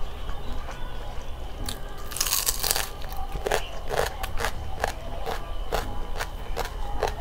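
Close-miked chewing with crisp crunches: a louder, denser crunch about two seconds in, then a steady chewing rhythm of sharp crunches about twice a second.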